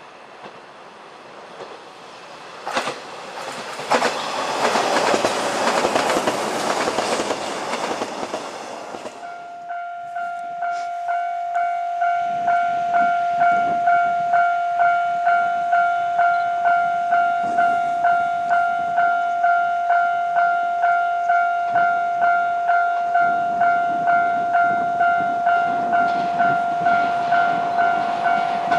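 An electric 485-series train running past on the rails, with a few sharp clicks of wheels over rail joints. Then a level-crossing warning bell dings steadily about twice a second, and a second train is heard coming on near the end.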